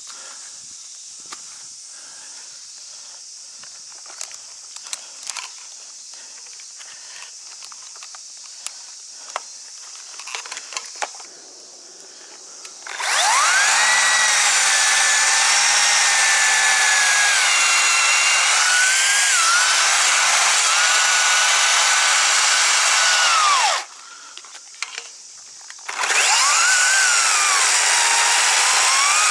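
Light clicks and rustling, then about halfway in a two-stroke chainsaw runs at high revs, its pitch dipping and rising as it cuts wood. It stops for about two seconds, then starts cutting again.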